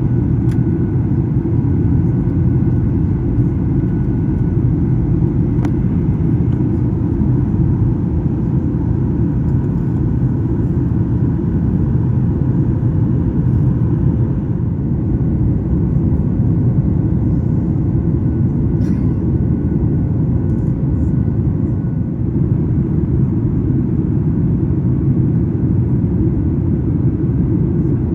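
Steady low rumbling drone inside a Boeing 737 MAX 8 cabin in flight, from its CFM LEAP-1B engines and the airflow, with faint steady hums higher up.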